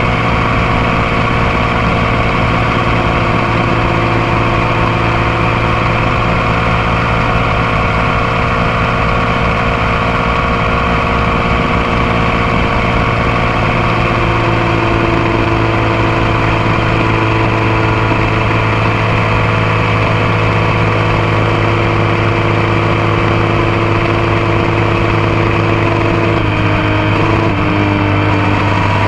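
Motorcycle engine running steadily under way, picked up close to the bike at the passenger foot peg. Near the end the engine note dips and steps briefly before settling again.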